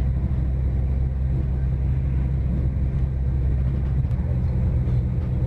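Steady low rumble of a moving diesel passenger train, heard from inside the carriage: running gear and wheels on the rails.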